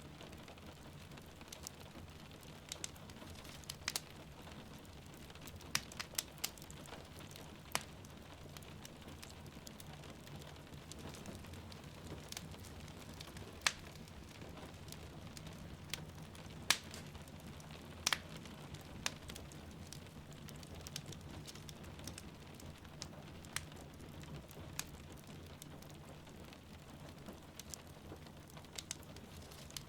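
Wood fire crackling in a fireplace, with sharp irregular pops a few times a second at most, over a steady hiss of rain falling outside.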